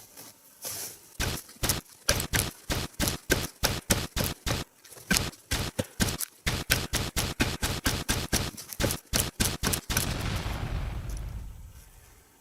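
Rapid axe strikes on a small dead tree's trunk, about three a second, chopping it through. About ten seconds in the tree gives way and falls with a rushing, crackling crash that fades out.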